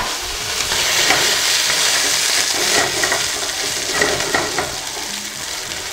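Shoestring French fries sizzling in hot oil in a nonstick frying pan, stirred with a spatula.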